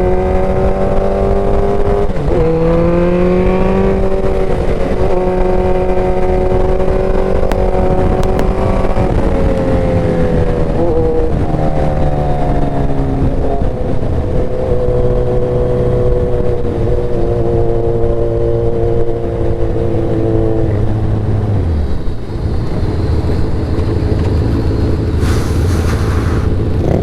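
Motorcycle engine running under way, its pitch holding steady and then stepping up and down every few seconds with throttle and gear changes. Near the end it drops to a lower, steady note.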